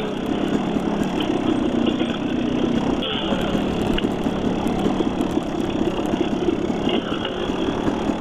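Dirt bike engine running steadily while riding a dirt trail.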